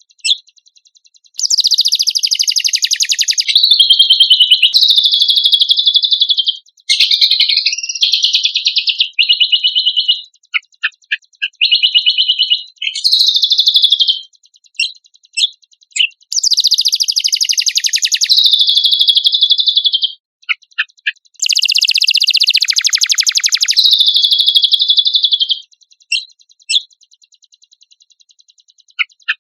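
Cucak kombok singing: long, rapid, high-pitched trilled phrases of a few seconds each, broken by short pauses and single sharp chips.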